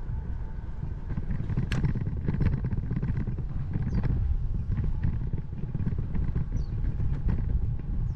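Wind buffeting the microphone on a moving bicycle, a steady low rumble, with a few sharp clicks and a couple of short high chirps.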